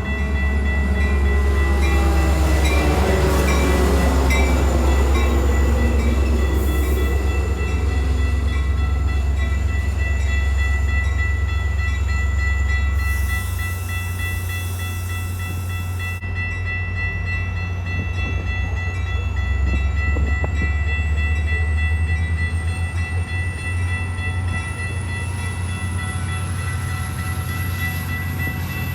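Diesel train passing: its horn sounds and drops steadily in pitch over the first few seconds as it goes by, over the train's heavy, steady rumble.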